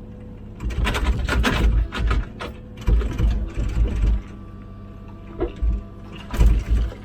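Komatsu PC16 mini excavator's diesel engine running steadily, with clattering and scraping as the bucket digs into rocky ground. The scraping comes in four spells of up to about a second and a half.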